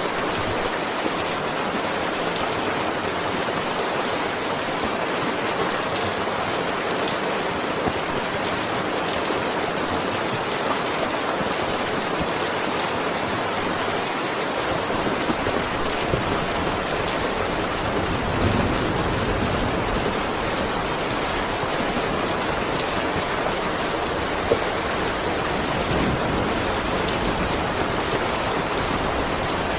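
Heavy rain falling steadily, a dense even hiss of drops on surfaces. A low rumble joins about halfway through, and a sharp tap stands out once near the end.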